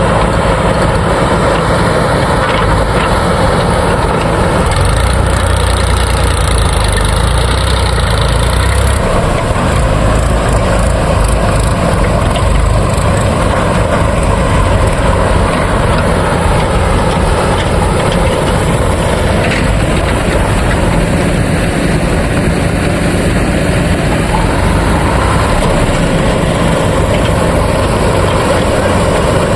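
Heavy diesel engines of a backhoe loader and farm tractors running steadily under work, with a deeper low hum from about five to nine seconds in.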